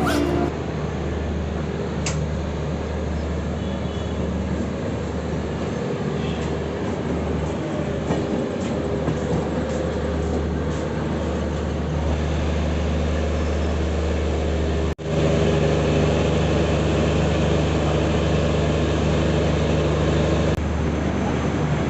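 Passenger train running at speed: a steady rumble and hum of the moving train. There is a momentary break about fifteen seconds in, after which the rumble is slightly louder.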